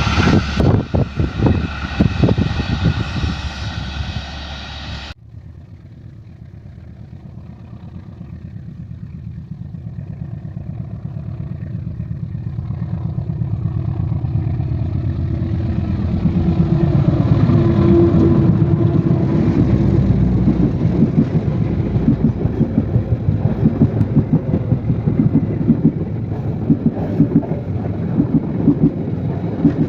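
Trains running past, their wheels clacking rhythmically over the rail joints. The sound cuts off sharply about five seconds in, then another train approaches and grows steadily louder. Its locomotive's pitch falls as it passes around the middle, and a regular clickety-clack of the cars follows.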